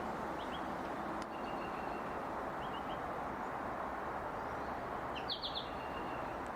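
Small birds chirping briefly three times over a steady background hiss of outdoor ambience, the clearest cluster of chirps near the end.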